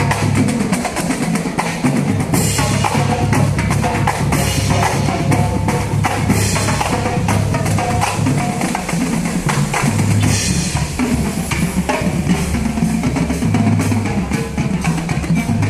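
Marching band percussion playing: snare drums and bass drums in a dense, continuous rhythm over steady low notes.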